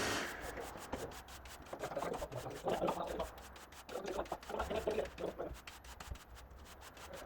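A steady machine noise cuts off right at the start, followed by irregular rubbing and scuffing strokes, several in a row with short pauses between them.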